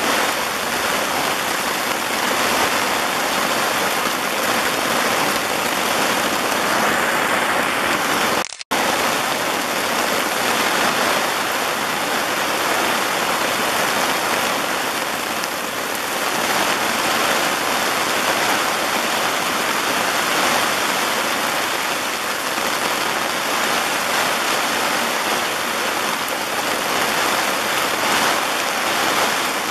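Steady rain falling in a forest, an even, unbroken downpour. The sound cuts out for an instant about eight and a half seconds in.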